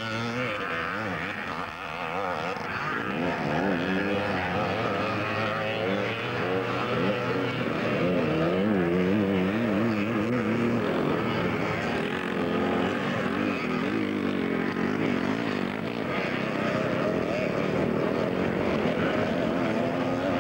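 Several vintage twinshock motocross bikes racing, their engines revving up and down and overlapping as they work round the track. The engine sound grows a little louder a few seconds in.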